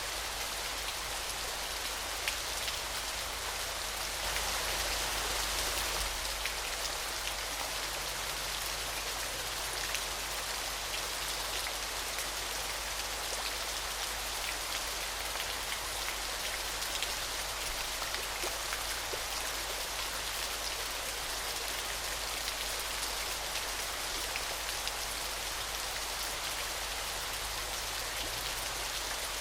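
Falling water splashing steadily: an even hiss with many fine droplet ticks, with little deep rumble, swelling slightly a few seconds in.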